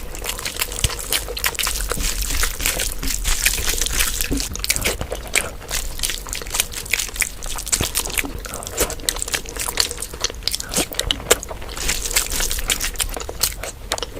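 Close-miked wet eating sounds: chewing and lip-smacking through mouthfuls of mutton curry and rice, a dense run of small sticky clicks and squelches.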